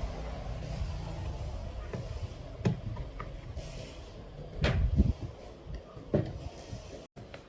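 Several sharp knocks and clunks, as of tools and metal parts being handled during engine repair work, over a low steady rumble; the loudest comes about two-thirds of the way through.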